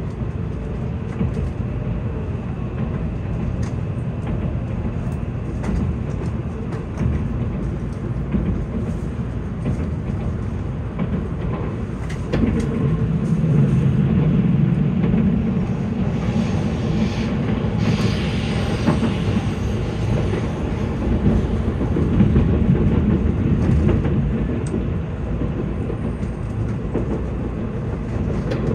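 Cabin running noise inside a Tokaido Shinkansen car on its approach into Tokyo Station: a steady low rumble of wheels on rail, getting louder about twelve seconds in, with some added hiss a few seconds later.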